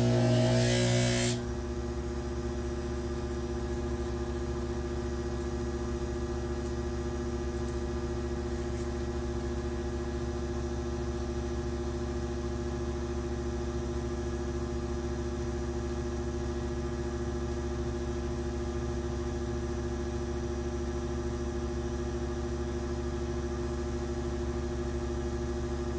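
Electric polishing machine running at steady speed, a constant hum with a fixed whine. For about the first second and a half it is louder, with a wavering tone, as work is held against the wheel, then it runs on evenly unloaded.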